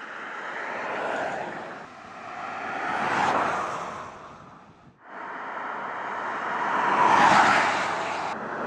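Passing-vehicle tyre and wind noise, a rushing sound that swells and fades four times, with a short gap about five seconds in.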